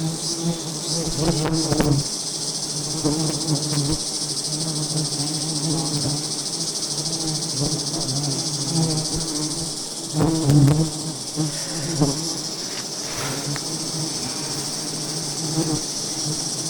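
A swarm of giant honey bees buzzing steadily, a dense low hum, with a continuous high insect drone above it.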